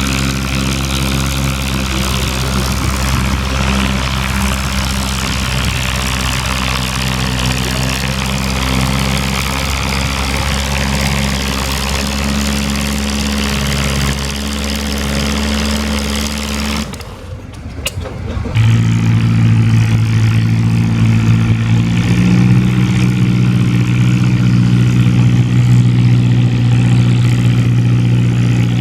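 Antique tractor engine running with a steady drone. About two-thirds of the way through the sound breaks off briefly, and a louder engine with a different, steady pitch takes over.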